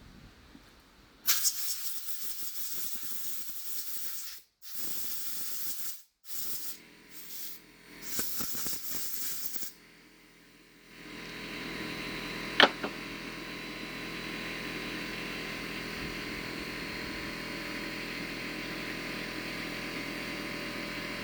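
Several bursts of hissing spray with short gaps, as the bolts are sprayed clean. A couple of seconds later a motor starts and runs on steadily with a hum, with one sharp click about a second after it starts.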